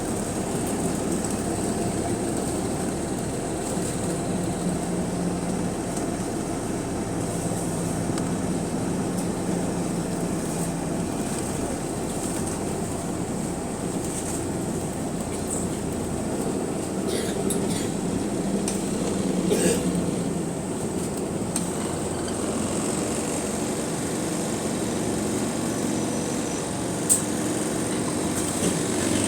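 Bus running, heard from inside the passenger cabin: a steady drone of engine and drivetrain with a thin high whine over it, and a few sharp clicks and rattles, the loudest near the end.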